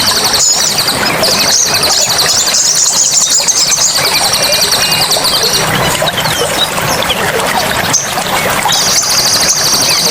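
Birds giving dense, rapid, high-pitched trills over a steady rush of running water. The trilling stops a little past halfway, with only scattered chirps, and starts again near the end.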